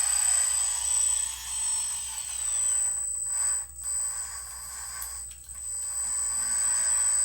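Small electric motors and hydraulic pump of a radio-controlled Huina dump truck running with a high-pitched whine, dipping briefly a few times near the middle.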